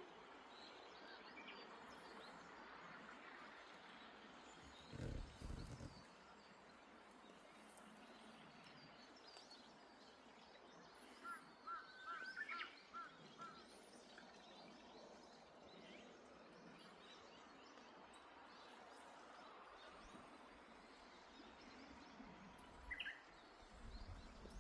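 Faint steady hiss of light rain, with birds calling: a quick run of short chirps around the middle and a brief call near the end. A low thump about five seconds in.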